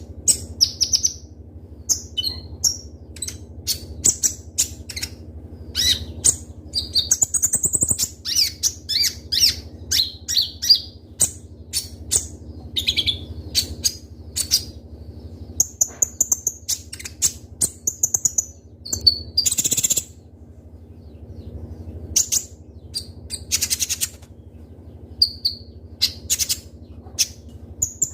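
Sunbird (the 'kolibri ninja' of Indonesian bird-keepers) singing vigorously: rapid, sharp high-pitched chirps, trills and quick repeated notes in dense bursts with short pauses. A faint steady low hum runs underneath.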